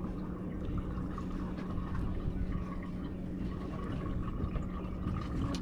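A steady mechanical hum with water trickling and splashing on a fishing boat.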